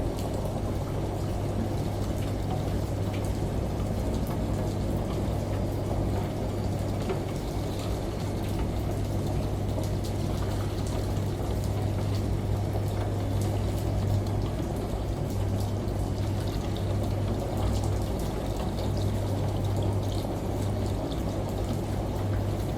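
Steady running, pouring water over a continuous low hum, with faint scattered drip-like ticks, the whole level and unchanging.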